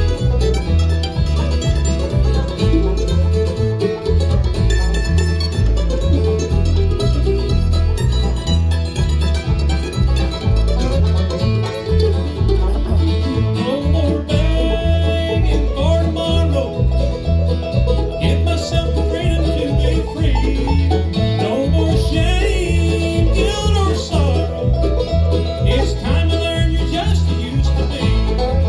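Live bluegrass band playing, with banjo and guitar over a steady bass rhythm; an instrumental passage with no clear singing.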